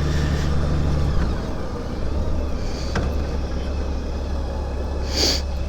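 Motor trike engine running steadily while riding, a low hum that eases off slightly about a second in. A short hiss comes near the end.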